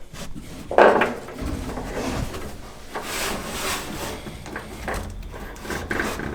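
Handling noises of hands working in an engine bay: rubbing and scraping with a knock about a second in, as a wiring connector is plugged back in.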